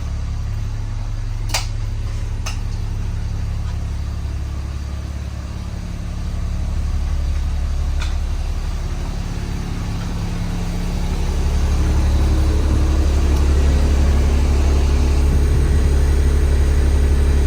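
International DT466E inline-six diesel engine of a 2003 school bus running steadily at idle, growing louder about eleven seconds in and staying there. Two sharp clicks come early on.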